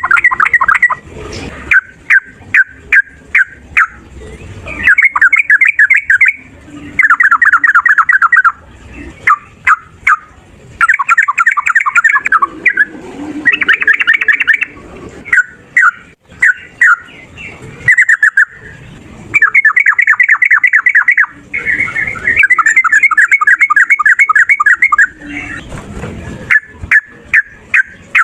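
Sooty-headed bulbul singing: fast rolling runs of rapid repeated notes, each lasting a second or more, broken up by single sharp chirps.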